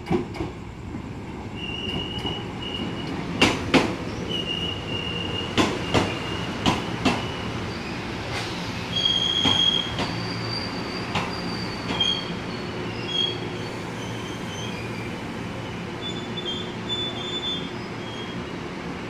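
Painted Taiwan Railway local train running in along the platform under a steady rumble. Its wheels knock sharply over rail joints several times in the first seven seconds, and short high-pitched wheel and brake squeals come and go as it slows.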